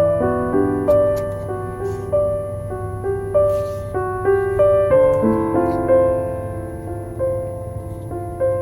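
Slow, gentle piano music, single notes and soft chords one after another, over faint scattered crackles of a wooden-wick candle.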